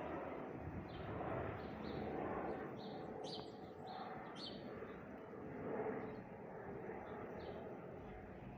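Airbus H130 helicopter flying away after take-off, its engine and rotor noise slowly fading. Birds chirp over it several times in the middle.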